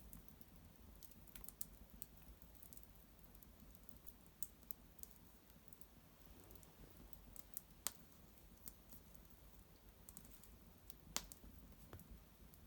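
Small fire of dried maple twigs crackling faintly in an irori hearth: scattered sharp ticks and pops over a low background hush, with two louder pops, one past the middle and one near the end.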